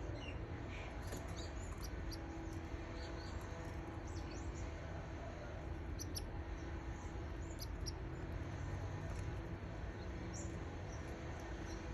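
Canary chicks cheeping: many short, thin, high squeaks, scattered and faint, over a steady background hiss and low hum.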